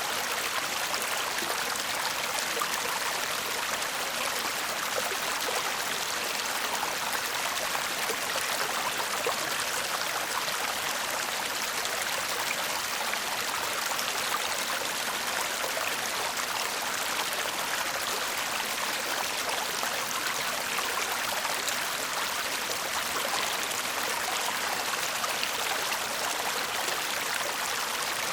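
A small shallow stream babbling and trickling over stones: a steady, even rush of water with no breaks.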